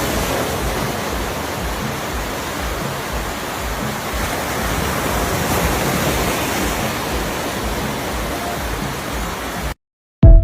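Ocean waves breaking and washing onto a beach: a steady rush with a pulsing low rumble. It cuts off suddenly near the end, followed by a sudden loud note of music.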